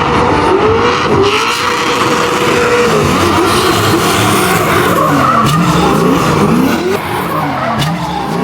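Drift car sliding, its engine revving high with tyres squealing. The engine note is held high for the first few seconds, then drops and climbs again and again.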